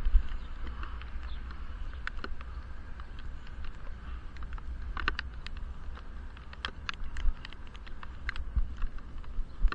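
Irregular small ticks and taps, which fit raindrops hitting a helmet-mounted action camera's waterproof case, over a steady low rumble of wind and road from riding a bicycle.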